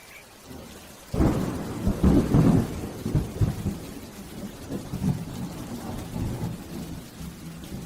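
Thunder rumbling over rain: a sudden low crack about a second in, loudest just after, then a rolling rumble that slowly fades.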